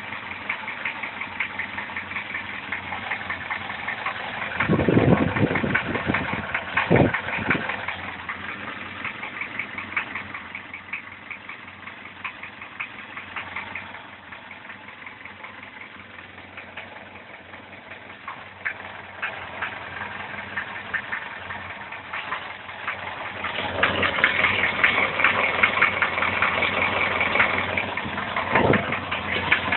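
Car engine running with a strong, rapid knocking and clanking from the top end. The owner puts it down to a stretched timing chain, even though a tensioner extender is fitted. It grows louder about three-quarters of the way through.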